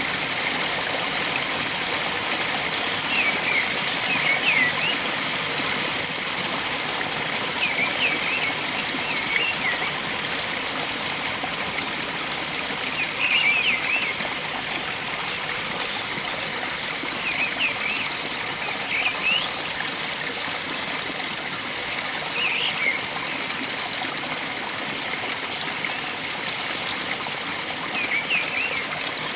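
Steady rush of a flowing stream, with a bird giving short clusters of high chirps every four to five seconds.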